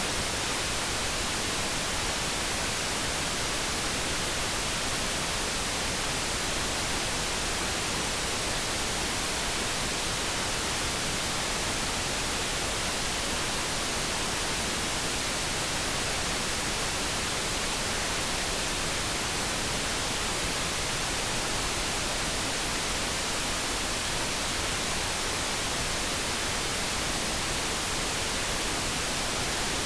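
Steady generated light brown noise: an even, unchanging hiss with no tones in it.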